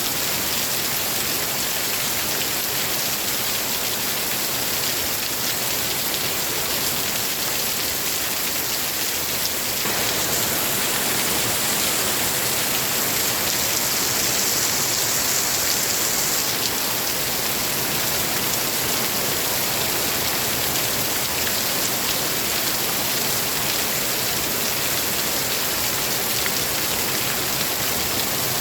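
Steady rain falling, an even hiss that grows slightly fuller about ten seconds in.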